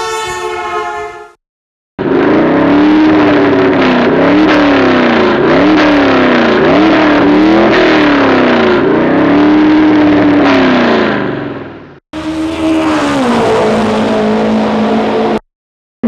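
A car engine revving up and down over and over, the pitch climbing and dropping about once a second, then cut off abruptly. After a brief gap a second burst begins, its pitch falling and settling to a steady note.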